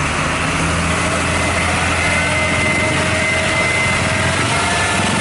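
Large truck engine idling steadily, with a thin high whine for a second or two in the middle.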